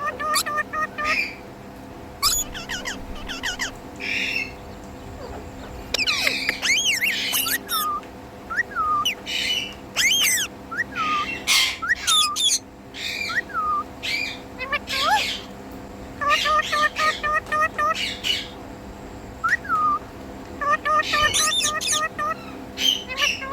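Indian ringneck parakeet calling in short loud bursts: quick runs of repeated notes and sliding rising-and-falling chirps, with brief pauses between them.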